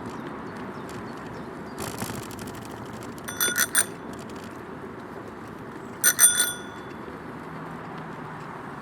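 A bicycle bell rung in two quick bursts of several rings each, the first about three seconds in and the second about six seconds in, over the steady rumble of tyres and wind on a moving bike. A short run of rapid ticking comes about two seconds in.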